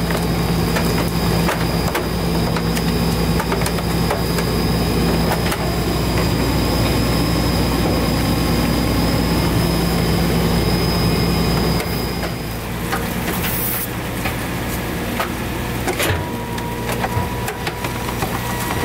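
CNG-powered Autocar garbage truck with a Heil Durapack 5000 rear loader, running steadily with a high whine for about twelve seconds, then dropping back. Scattered sharp knocks and cracks follow.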